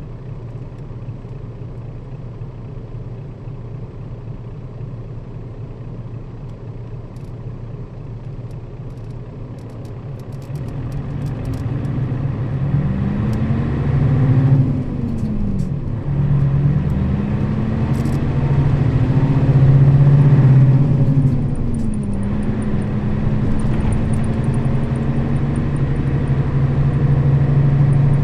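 Nissan Diesel KL-RA552RBN bus's diesel engine, heard from on board. It runs steadily at first, then about ten seconds in grows louder as the bus accelerates. Its pitch climbs, drops at a gear change about halfway through, climbs again, drops at a second shift, and settles into a steady cruise.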